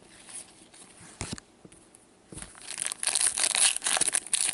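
Plastic trading-card packaging being torn and crinkled by hand, starting about halfway in after a couple of soft clicks, then going on as a dense, rapid crinkle.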